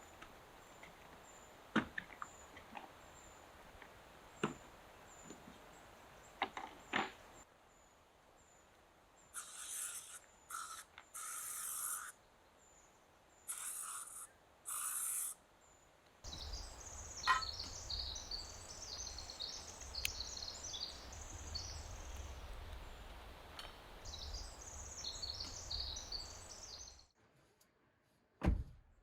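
Dog gnawing a chew stick, a few sharp crunching clicks over faint high chirps repeating at an even pace. A cut follows to short bursts of noise, then a long stretch of busy, high bird twittering over a low rumble, which drops away near the end.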